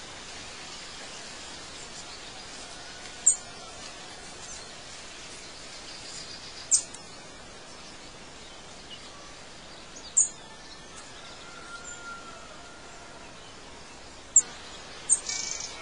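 Short, high-pitched bird chirps, five in all, spaced about three to four seconds apart with two close together near the end, over a steady background hiss of outdoor ambience.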